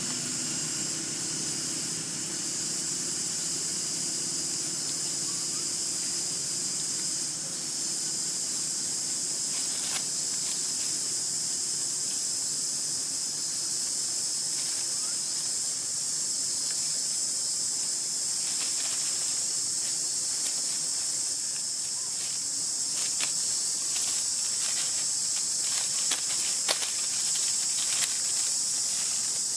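A steady, high-pitched insect chorus, with scattered sharp clicks or taps in the last few seconds.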